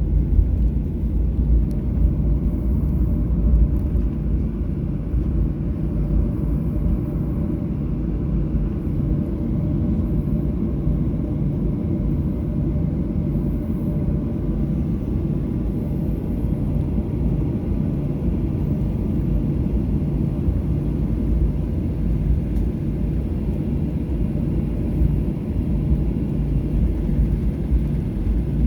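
Steady low rumble inside the cabin of a Boeing 737-800 taxiing after landing, its CFM56-7B engines at idle.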